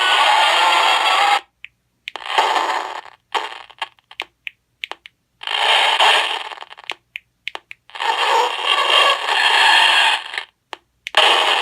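A Halloween sound-effects box playing through its small speaker. It runs one pre-recorded spooky effect after another, each cut off by a short silence, and they come out distorted and staticky because tape covers the speaker.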